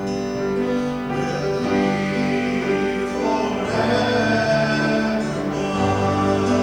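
Worship song performed live, with singing voices over instrumental accompaniment, holding long sustained notes.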